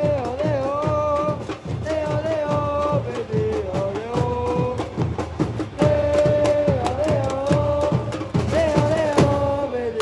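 Football supporters' chant: a sung melody in unison over steady drum beats.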